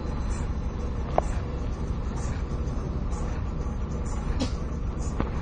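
Steady low rumble of idling traffic and the car's own engine, heard from inside the stopped car's cabin. A single brief, sharp tone sounds about a second in.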